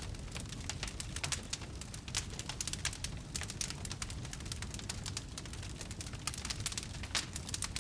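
Wood fire crackling in a fireplace: frequent sharp pops and snaps, several a second at irregular spacing, over a low steady rumble of the flames.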